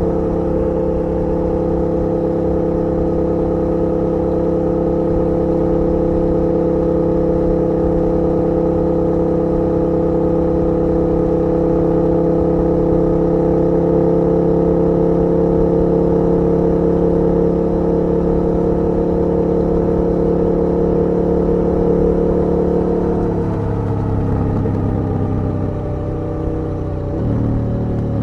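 KTM 1290 R's V-twin engine running at a steady pitch, heard from the rider's seat. Toward the end the note drops off as the throttle is eased, then shifts again near the close.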